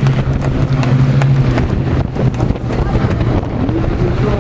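Low, steady drone of piston-engined propeller warbirds in flight, weakening about halfway through, with wind buffeting the microphone.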